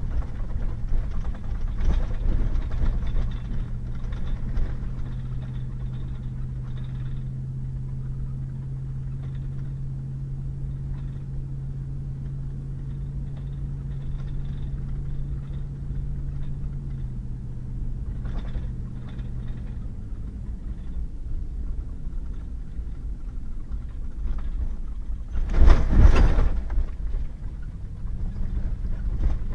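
Pickup truck driving on a wet gravel and mud road: a steady engine hum over tyre and road rumble. The engine note drops and fades about two-thirds of the way through, and near the end comes a loud, noisy burst lasting about a second.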